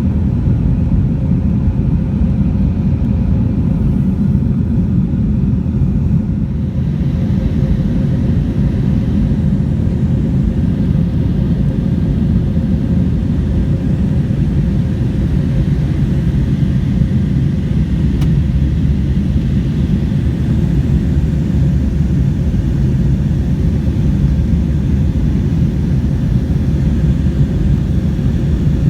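Airbus A321 airliner in flight after takeoff: a loud, steady low rumble of jet engines and rushing air.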